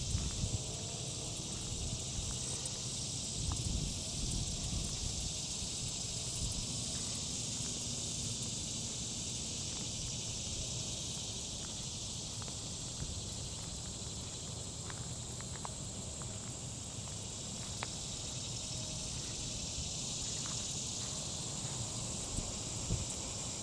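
Steady insect chorus: an unbroken high, shrill drone, with a low rumble underneath and a few faint clicks.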